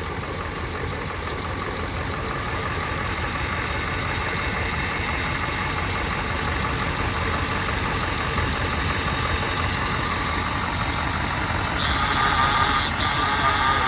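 Ford 7.3 IDI turbo diesel V8 idling steadily with its diesel clatter. Near the end a louder, higher hiss joins in.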